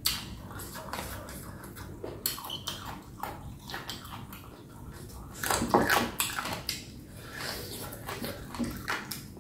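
Close-up chewing and crunching of boneless chicken feet pickled with lemongrass and kumquat: wet mouth sounds with short, crisp crackles, and a louder run of crunching about five and a half seconds in.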